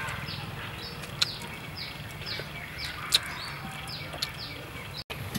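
Small birds chirping over and over in quick, short notes that slide downward, with a few sharp clicks about one, three and four seconds in.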